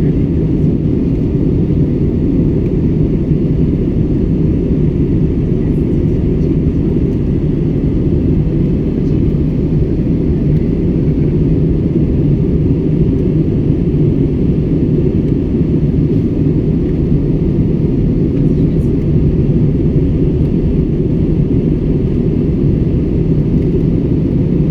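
Steady airliner cabin noise in flight: the deep, even drone of the engines and airflow, unchanging throughout.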